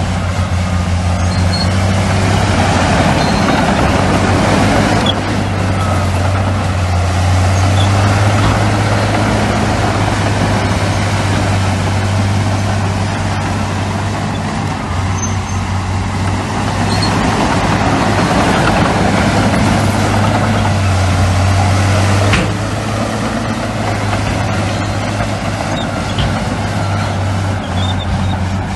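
Heavy diesel earthmoving machinery running under load, a steady low engine hum with the noise swelling and easing, and a sudden drop about three-quarters of the way through.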